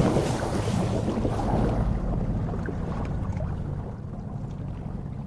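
Ocean water rushing and sloshing, fading over the first few seconds into a low, steady underwater rumble.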